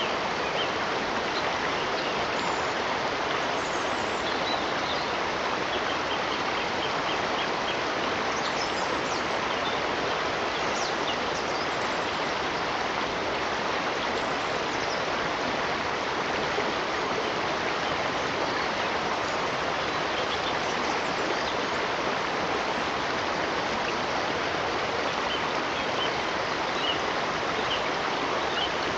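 A stream of water rushing steadily, with faint, brief bird chirps scattered here and there above it.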